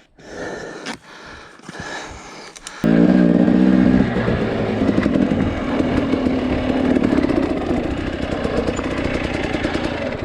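Two-stroke dirt bike engine: a few knocks and clatter at low engine level, then about three seconds in the throttle opens and the engine runs loud and hard under load for the rest of the time, its pitch holding fairly steady.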